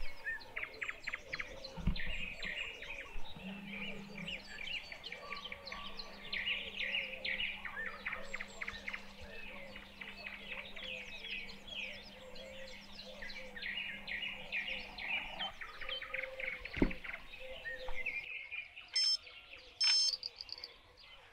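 Songbirds chirping and singing in a dense chorus that thins out near the end. A steady low hum runs through the middle, and a single thump comes about 17 seconds in.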